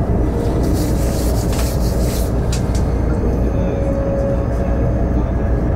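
Train running at speed, heard from inside the carriage: a steady low running noise with brief rushes of hiss about a second in.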